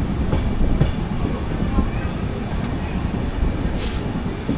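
Express passenger train running, a steady low rumble heard from inside the coach.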